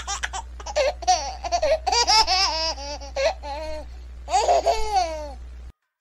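A person laughing, high-pitched, in a run of quick laughing bursts that ends in a longer falling laugh, over a steady low hum that cuts off with it near the end.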